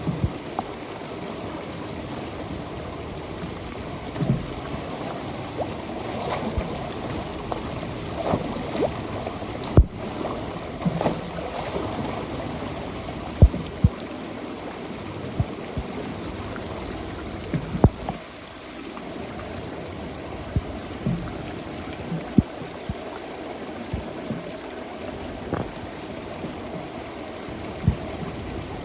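Floodwater running steadily into a street storm drain, with scattered sharp knocks and clunks every second or two.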